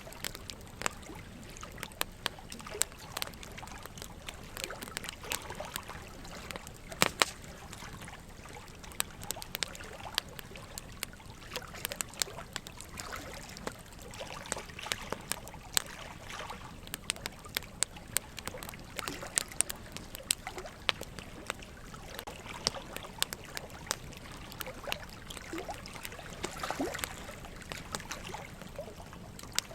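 Burning logs crackling, with frequent sharp pops scattered irregularly, the loudest about seven seconds in, over a steady trickle of running water.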